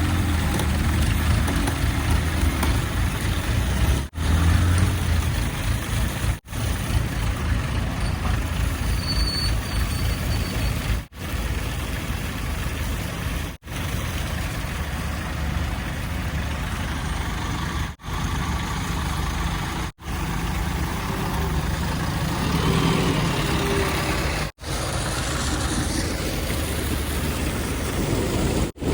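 Heavy diesel engines of a backhoe loader and tipper trucks running. The sound is cut into short clips, dropping out abruptly for an instant every few seconds.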